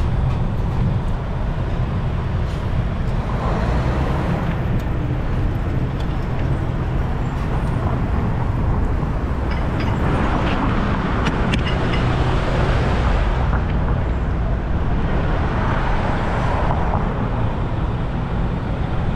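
City road traffic, with vehicles swelling past a few times, under a steady low rumble.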